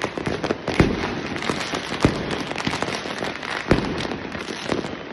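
Fireworks and firecrackers going off all around in a dense, continuous crackle, with sharp bangs standing out about a second in, about two seconds in and near four seconds in.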